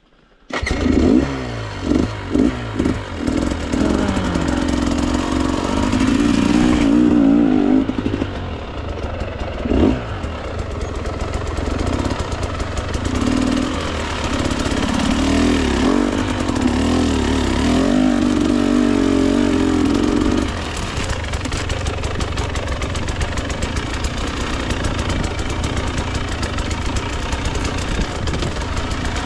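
Husqvarna TE 300 two-stroke dirt bike engine cutting in suddenly with a quick series of throttle blips, then revving up and down under load on the trail. The hardest, wavering revving comes in two long stretches, the second ending about two-thirds of the way through, after which the engine runs steadier and lower.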